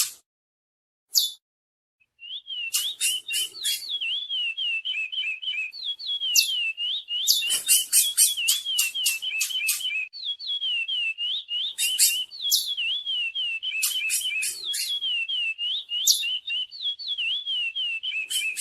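Curió (chestnut-bellied seed-finch) singing: one short call, then from about two seconds in a long, continuous song of rapid whistled notes that rise and fall, with sharp high chips between them.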